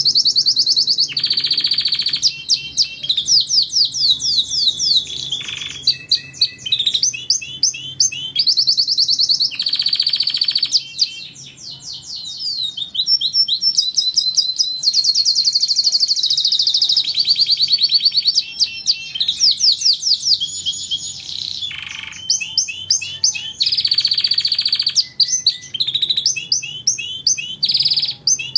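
Domestic canary singing a long, near-continuous song of rapid trills and rolls, switching to a new phrase every second or two, with brief lulls.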